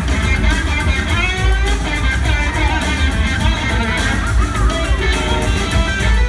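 Live rock band jamming: an electric guitar plays a lead line with notes that glide up and down, over a full band with a heavy bass.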